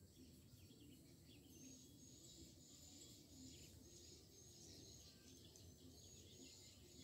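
Faint swiftlet lure call: short high chirps repeating about twice a second, starting about a second and a half in, over a low background hum.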